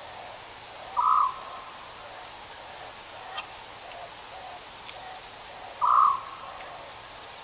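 A bird calling: two short, level-pitched calls about five seconds apart, over a steady hiss.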